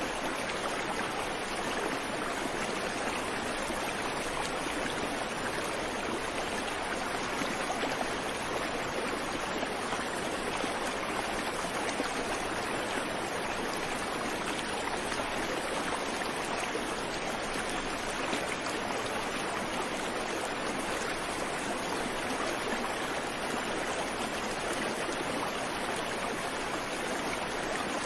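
Creek water flowing steadily over rocks, an even rushing and babbling with no birds.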